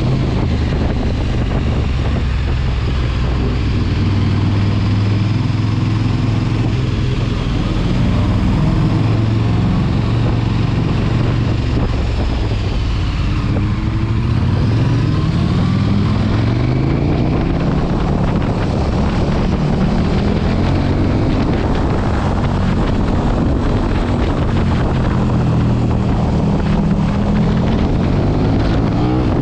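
Sport motorcycle engine running at speed, holding steady revs at first, then climbing repeatedly through the gears about halfway through, with wind noise on the microphone.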